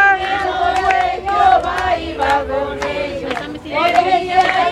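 Church congregation singing a praise chorus together in Spanish, many voices in unison, with some sharp clicks alongside.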